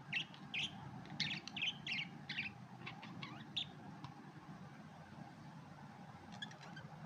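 Budgerigars chirping: a quick run of short chirps for the first few seconds, then a few sparse chirps near the end, over a low steady hum.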